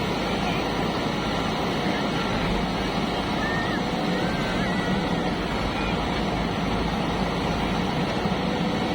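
Heavy diesel machinery engine running steadily.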